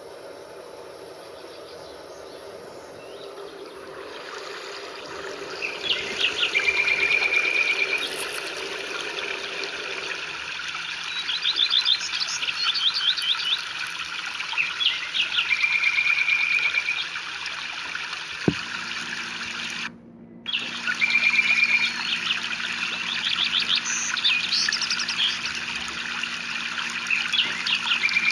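Songbirds singing over a steady rush of rain. They repeat phrases of quick chirps, each followed by a held whistled note, every few seconds. The birdsong starts a few seconds in, and there is a sharp click and a brief gap about two-thirds of the way through.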